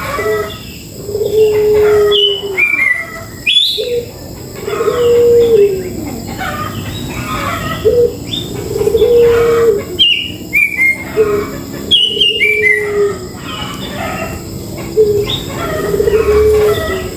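Several birds chirping and calling together, short sweeping chirps over and over, with a low, level note about a second long repeated every few seconds.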